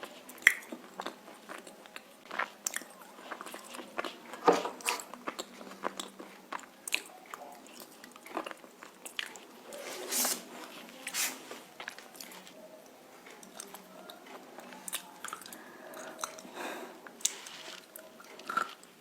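Pieces of roasted nakumatt clay being bitten and chewed, with irregular sharp crunches between quieter chewing.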